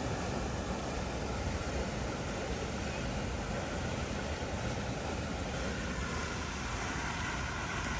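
Steady wind rush and rolling noise while riding a bicycle, without a break.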